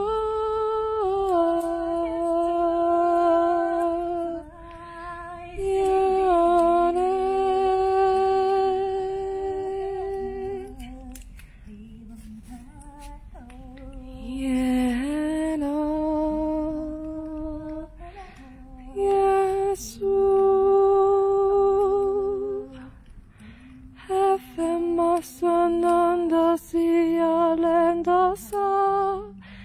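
A single voice humming a slow melody in long held notes, in phrases with pauses between them, ending in a run of short detached notes.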